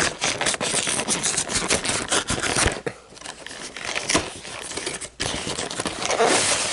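The packaging of a cardboard trading-card collection box being torn open and handled: dense crackling and tearing for about three seconds, then quieter rustling, a sharp snap a little after five seconds, and loud crinkling again near the end.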